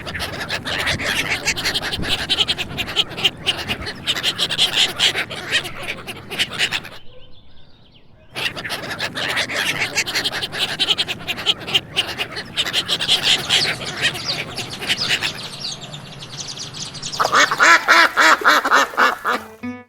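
Duck quacking in fast runs of quacks, breaking off for about a second some seven seconds in, then resuming; the loudest run of quacks comes near the end.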